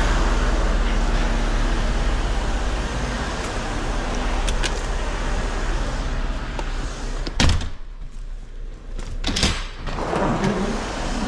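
A truck's engine running steadily. A loud thump comes about seven seconds in, after which it is much quieter, with a few sharper knocks.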